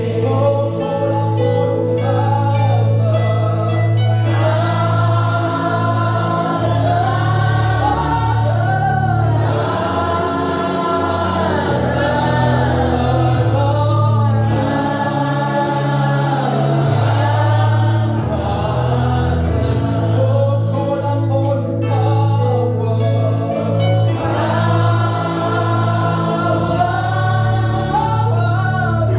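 Choir singing a gospel worship song over instrumental accompaniment with long held bass notes.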